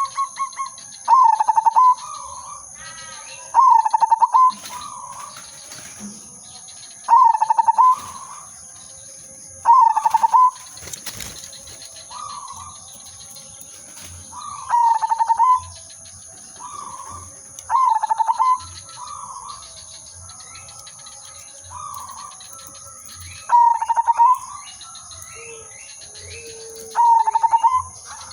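Zebra dove (perkutut) singing its staccato cooing song: a rapid stutter of notes running into a drawn-out coo, repeated eight times a few seconds apart, with softer coos in between.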